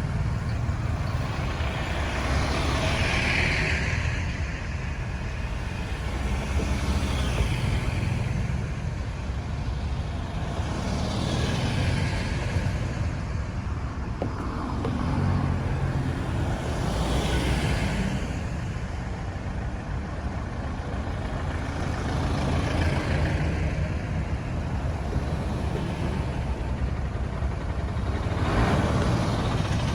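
Road traffic: a steady low rumble with vehicles passing one after another, each swelling up and fading in a rush of engine and tyre noise every few seconds.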